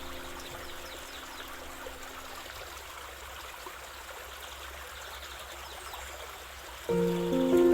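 Gently flowing stream water running steadily, under soft held music notes that fade out after a couple of seconds. Close to the end, louder sustained music notes come in suddenly over the water.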